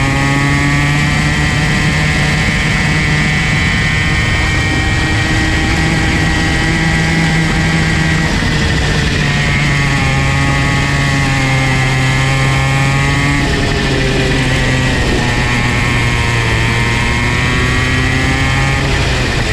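Comer C50 50cc two-stroke go-kart engine running continuously at high revs, its pitch dipping slightly and climbing again a few times.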